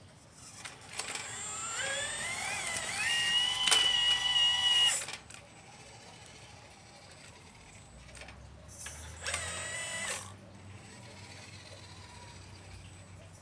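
Motors of a 1/12-scale Liebherr 954 RC model excavator whining as it works. A whine rises in pitch over about two seconds, holds steady and stops about five seconds in. A second, shorter whine comes about nine seconds in.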